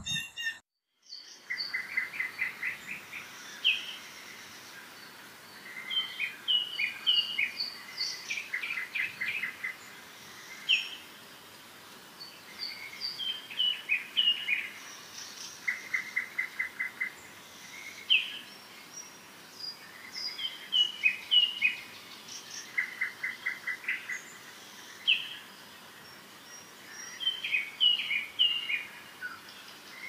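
Small birds calling and singing: repeated short, rapid trills mixed with high chips and brief whistled notes, coming in bursts a few seconds apart over a faint steady outdoor hiss.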